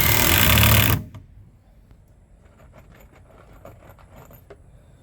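Power drill driving a screw into wood, its motor whine rising, stopping sharply about a second in. A few light clicks and taps of handling follow.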